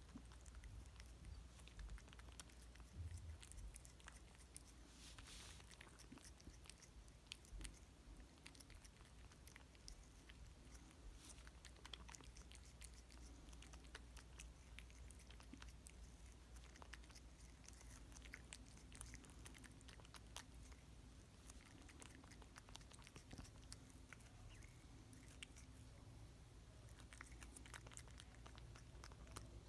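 A cat chewing and biting pieces of cantaloupe: faint, irregular clicking chews all through.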